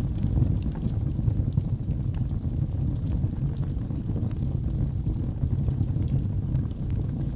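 Wood fire burning in a fireplace: a steady low rumble of the flames with scattered small crackles and pops from the burning logs.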